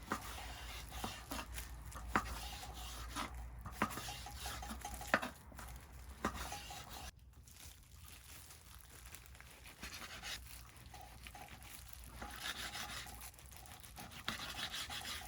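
Food being prepared by hand: scattered light clicks and knocks of utensils and containers, with some liquid sounds.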